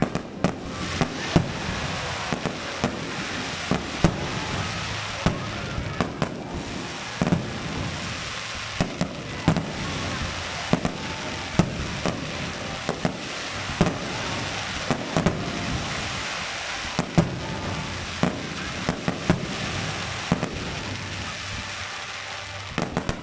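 Aerial firework shells bursting in quick succession: sharp bangs about once or twice a second, without a pause, over continuous crackling.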